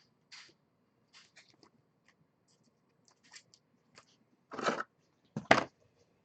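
Trading cards and pack wrappers being handled: scattered light ticks and soft rustles, then two louder short rustles about a second apart near the end.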